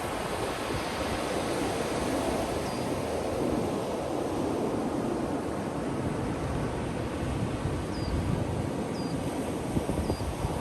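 Ocean surf washing steadily onto a beach, a continuous rushing of breaking waves. A few faint, short high chirps come through several times over it.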